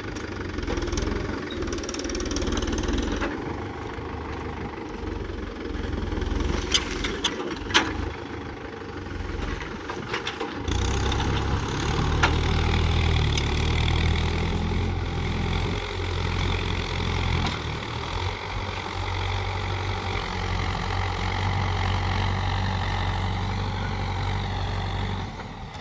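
Mahindra Yuvo 575 tractor's diesel engine running, with a few sharp clicks or knocks about six to eight seconds in. About eleven seconds in, the engine's deep note becomes louder and steadier.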